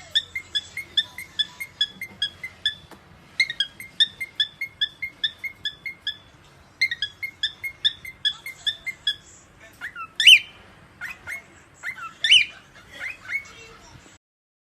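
A parrot chirping in three quick runs of evenly repeated short notes, about three a second, then giving several louder whistled calls that glide up and down near the end.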